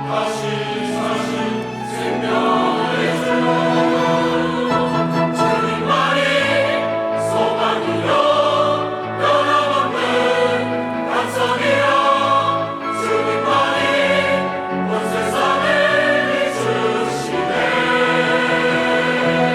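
Church choir singing a sacred anthem in full voice, with sustained held chords over steady low instrumental bass notes from its accompaniment.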